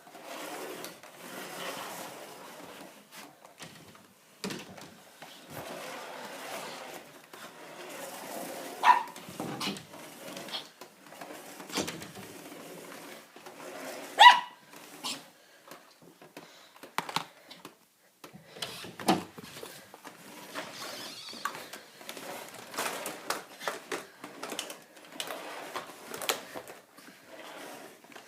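Jack Russell terrier barking in short bursts, with scuffling and knocking in between. Two sharp barks are the loudest, about nine and fourteen seconds in.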